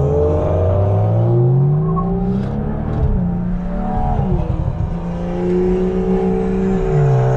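Straight-piped Toyota GR Supra's B58 turbocharged 3.0-litre inline-six, running through a catless downpipe, accelerating. Its note rises in pitch over the first three seconds, holds fairly steady, then drops in pitch near the end.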